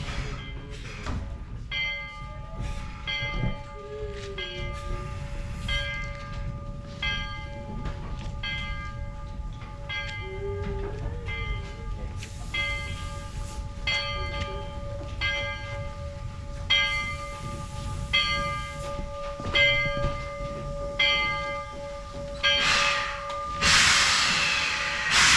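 Steam locomotive bell on narrow-gauge Baldwin 4-6-0 No. 18, rung steadily at about one stroke a second over the engine's low rumble. A loud rush of hissing steam comes in near the end.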